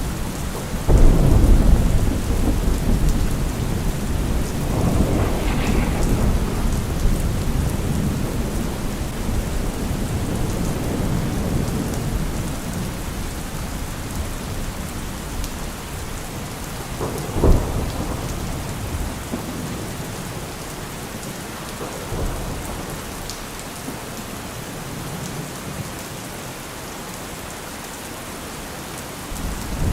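Steady rain with rolling thunder: a heavy rumble about a second in, further rumbles over the next several seconds, and a sharper thunderclap a little past the middle.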